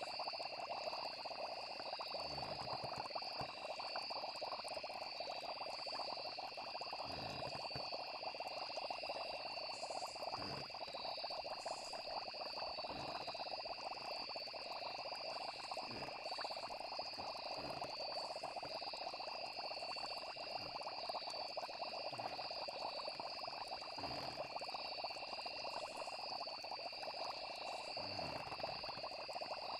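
Night nature ambience: a steady chorus of croaking frogs with a continuous high insect trill. Short low pops come every two to four seconds.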